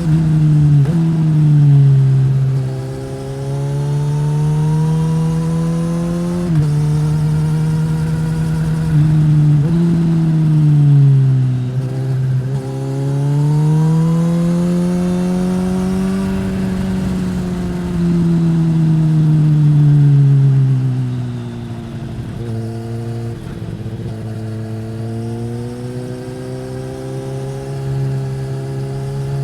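2015 Suzuki GSX-S1000's inline-four engine through a Yoshimura R-11 slip-on exhaust, under way. It pulls up through the gears, with the pitch dropping sharply at each of three shifts in the first ten seconds, then winds down, rises again through the middle, and drops to a steadier, lower note for the last third.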